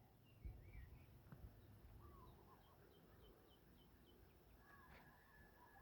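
Near silence with faint bird chirps: a short run of small, quick, falling notes, about three a second, in the middle.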